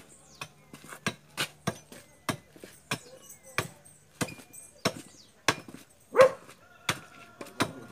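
Firewood being chopped: a dozen or so sharp blows, roughly one every half second to second, with one louder blow about six seconds in.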